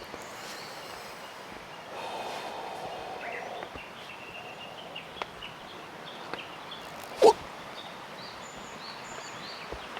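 Outdoor ambience: a steady background hiss with scattered faint bird chirps, broken by one short, sharp sound about seven seconds in.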